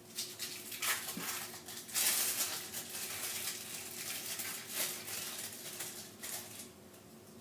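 Irregular rustling and handling noises from cheese slices being put onto bread slices on a counter, over a faint steady hum.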